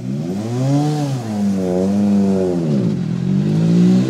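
Rally car engine revving up and down: its pitch climbs, eases back, climbs again, sinks low about three seconds in, then rises once more and drops near the end.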